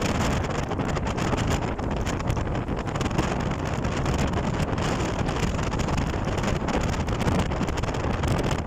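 Strong storm wind blowing steadily across the microphone, a continuous low rumbling buffet.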